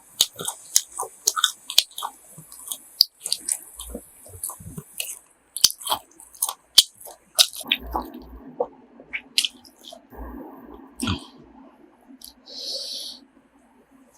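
Close-up chewing of crunchy grilled pork offal, with many quick crisp clicks through the first half. From about halfway the chewing slows over a steadier low sound.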